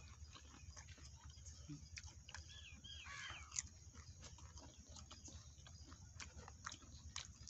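Faint wet chewing and mouth clicks as people eat fried samosas, with a short bird call of a few quick chirping notes about two and a half to three and a half seconds in.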